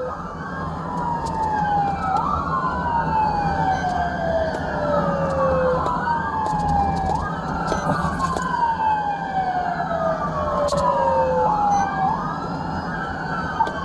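Police car sirens wailing: a slow falling wail that repeats every few seconds, snapping quickly back up to pitch each time, with a second siren overlapping. Steady engine and road noise runs underneath.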